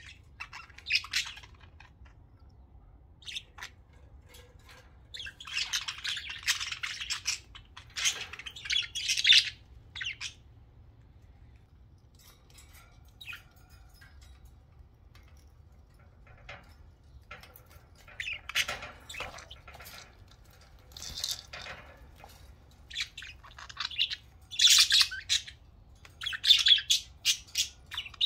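Budgerigars chirping and chattering in irregular bursts, with a quieter lull in the middle.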